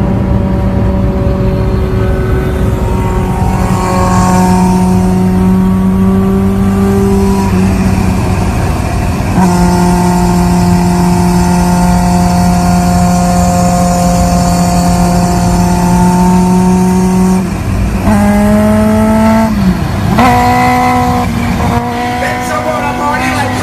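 High-performance engine running hard at high, steady revs for long stretches, with a short dip in pitch partway through. Near the end the pitch drops and climbs again several times, like quick gear changes.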